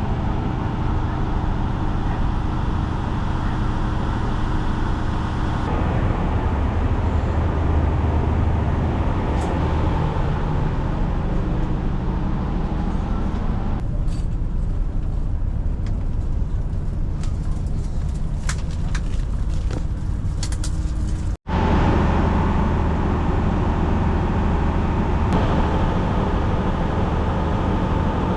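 Yufuin no Mori diesel sightseeing train running, a steady low rumble with a few sharp clicks, broken off for an instant about two-thirds of the way through.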